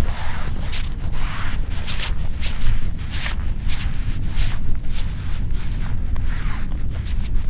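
Steady low rumble with a run of short scraping or rustling strokes, roughly one or two a second.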